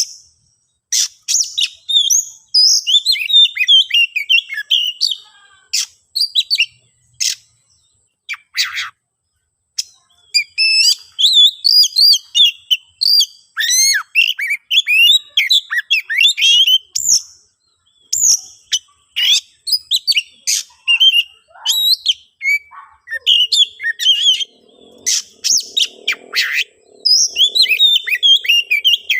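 Oriental magpie-robin (kacer) singing a fast, varied song of whistles, warbles and sharp clicks in bursts with short pauses. This is the agitated song of a territorial male challenging a rival.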